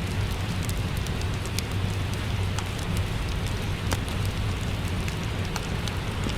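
Steady rain falling, with a fireplace crackling: sharp pops of burning wood scattered through the even hiss of the rain over a low rumble.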